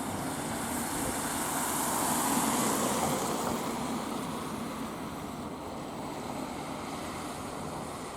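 Tohoku Shinkansen train running past the platform: a rushing noise that swells to a peak a couple of seconds in, then fades away.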